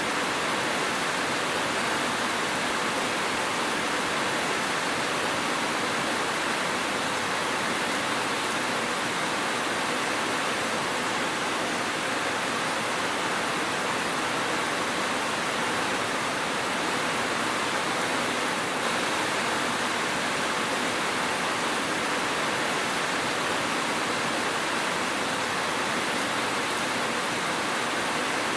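Steady rain, an even hiss with no single drops, thunder or other events standing out.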